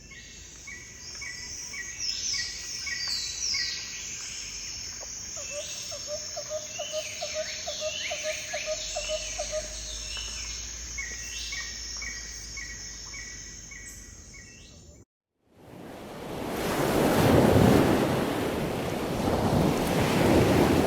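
A chorus of many birds calling, with repeated chirps, quick falling notes and a rapid trill in the middle. About fifteen seconds in, it cuts off and is replaced by surf breaking, with wind on the microphone, swelling and falling.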